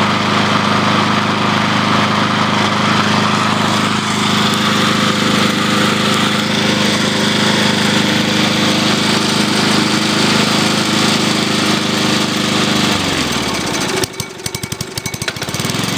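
Briggs & Stratton push-mower engine running steadily on charcoal lighter fluid. About 13 seconds in it slows down, then runs rough with separate uneven firing pulses for a second or two before steady running returns at the very end.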